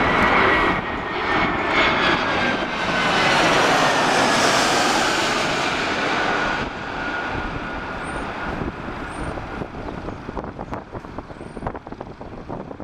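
Airliner's engines passing close on landing approach: a loud rushing noise with a whine that slowly falls in pitch, dropping off suddenly about two-thirds of the way through and then fading away.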